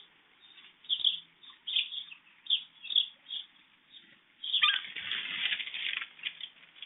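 Small birds flapping their wings in a few short flurries, then a longer, louder flurry starting about four and a half seconds in and lasting nearly two seconds.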